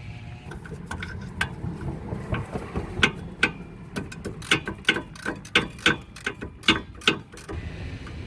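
Ratchet wrench clicking in quick, uneven runs while backing out a loosened 17mm caliper bracket bolt on a rear brake.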